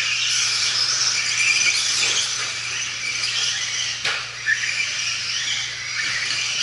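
A pack of 1/10-scale electric 2WD RC stadium trucks racing: several high-pitched motor whines rising and falling as they accelerate and brake, mixed with tyre scrub, over a steady low hum.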